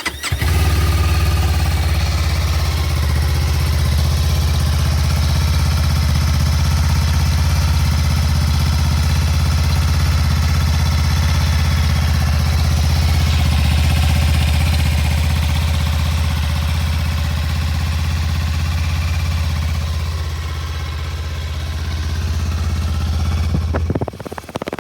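2024 Kawasaki Ninja 500's parallel-twin engine on its stock exhaust, catching on a cold start and idling steadily. The sound cuts off near the end.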